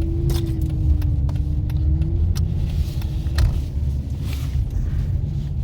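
Dodge Charger's engine and road noise heard from inside the cabin while driving: a steady low rumble with a faint held hum that drifts slightly in pitch and fades out about three and a half seconds in, plus a few light clicks.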